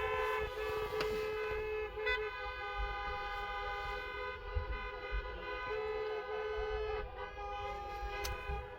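Many car horns sounding together in long, overlapping blasts: several steady held tones at different pitches sounding as one chorus.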